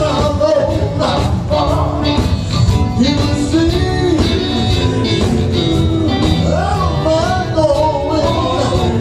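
Live gospel music: a voice singing a bending melody over a band with bass and a steady drum beat.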